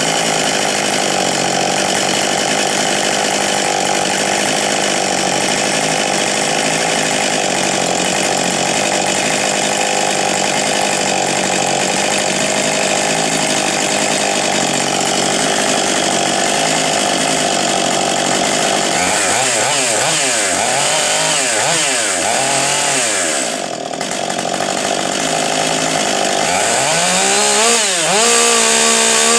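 Ported Husqvarna 562 XP two-stroke chainsaw running at a steady high speed for the first two-thirds. It is then revved up and down several times, drops off briefly, and climbs back to a high rev near the end.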